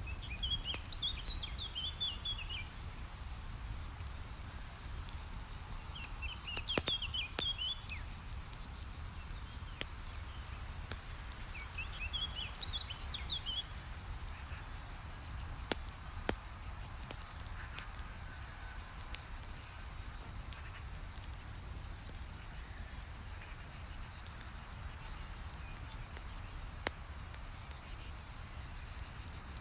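Outdoor campfire ambience: a wood fire crackling with a few sharp, sparse pops, under a steady high hiss of insects. A songbird sings three short chirping phrases in the first half.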